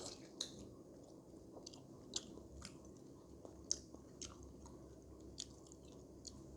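A person chewing a mouthful of food, with faint steady mastication broken by short, sharp wet mouth clicks at irregular intervals, about one a second.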